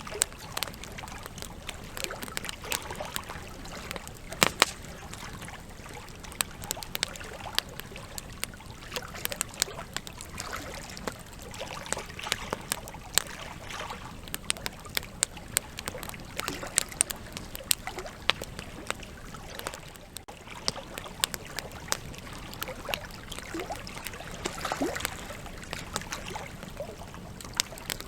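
Wood campfire crackling: frequent irregular sharp pops and snaps of burning logs over a steady hiss, with a few short whistling tones near the end.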